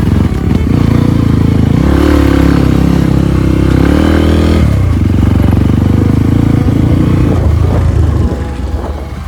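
Trail motorcycle engine running under throttle on a muddy track. The revs climb from about two seconds in, drop sharply at about four and a half seconds, then hold steady before easing off near the end.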